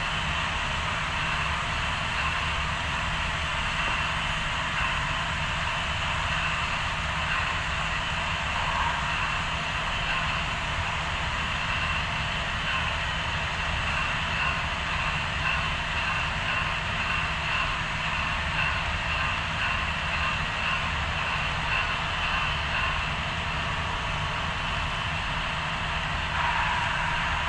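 HO scale model trains running on the layout: a steady whine and rumble of locomotive motors and wheels on the rails, with faint light ticking.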